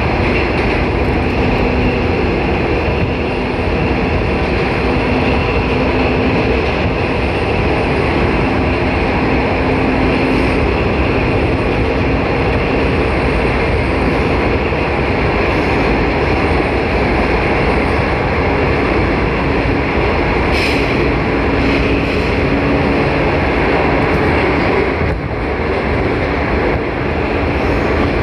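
JR 415 series electric multiple unit running at steady speed, heard from inside the passenger car: a continuous rumble of wheels on rail with a faint hum from the traction motors. A brief sharp noise comes about twenty seconds in, and the noise dips briefly a few seconds later.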